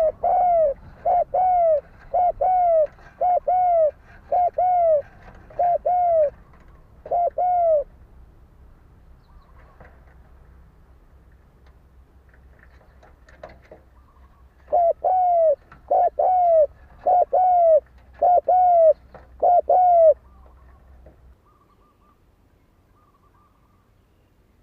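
Spotted dove cooing its dueling call, the kind used to provoke rival males: a quick run of short arched coos, a pause of about seven seconds, then a second run.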